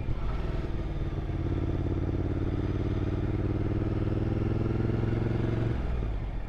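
Motorcycle engine running under way, its pitch slowly climbing as it pulls. Near the end the pitch drops suddenly as the throttle is closed or a gear is changed. Wind and road noise run underneath.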